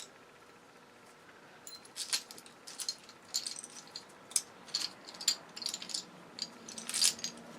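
Small metal parts of a dismantled circuit breaker clinking and rattling as they are handled, a string of light irregular clicks and jingles starting about a second and a half in.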